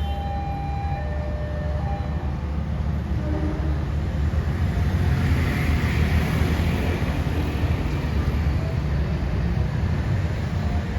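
Passenger train passing at speed, a heavy rumble of wheels on rail that swells to its loudest about halfway through and stays loud after. A few short steady tones sound in the first second or two.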